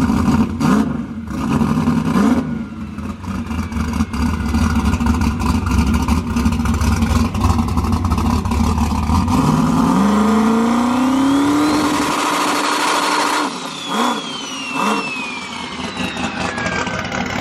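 Turbocharged drag-race car engine idling with a heavy low rumble. About ten seconds in it is revved: its pitch rises and a turbo whine climbs. The whine then slowly falls away as the turbos spool down.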